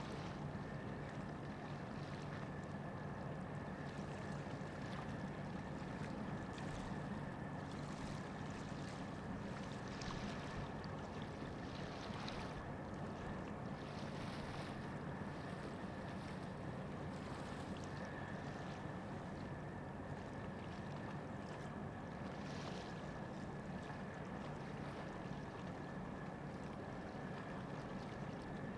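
Steady low drone of ship engines running, with a faint steady high whine above it and brief hissing sounds now and then.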